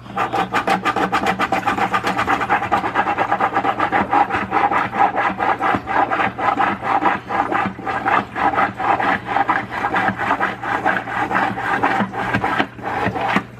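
Priming pump on the lid of a SunSun 304B aquarium canister filter being pumped by hand in quick, regular strokes, several a second, drawing water into the hoses and canister before the filter is plugged in.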